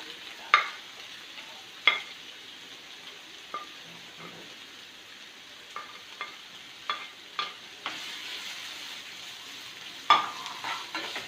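Onions and crushed green chillies sautéing in hot coconut oil, a steady sizzle, with a spatula clicking against the pan now and then as they are stirred.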